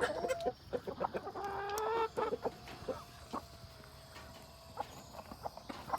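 Laying hens clucking in short calls as they are let out of the coop, with scattered light clicks and knocks. A faint, even tone is held for a few seconds in the middle.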